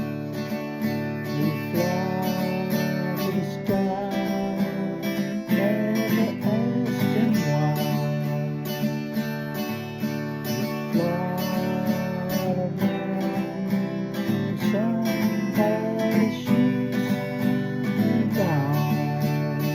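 Acoustic guitar music: steady strummed chords under a melody line that slides between notes, with no singing.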